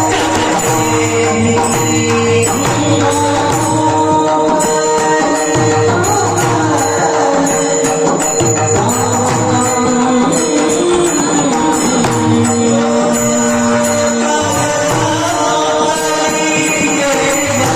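Marathi devotional song (abhang) with a male voice singing a bending melody over a steady held accompaniment tone and continual jingling hand percussion.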